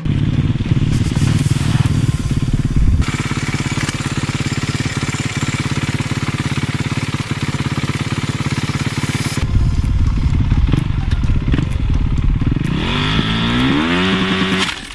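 Dirt bike engines running hard in a string of spliced clips, the sound changing abruptly twice; near the end one engine revs up, its pitch rising in steps as the bike accelerates.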